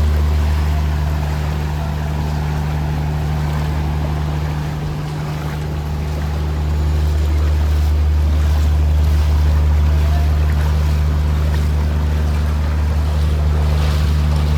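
A steady low motor drone that fades for a couple of seconds about five seconds in and then comes back, over a constant hiss of noise.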